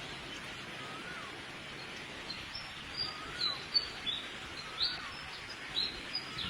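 Wild birds calling over a steady hiss of outdoor noise. One bird repeats a short note that rises and then bends down, about once every second and a bit. From about two seconds in, short high chirps come two or three times a second.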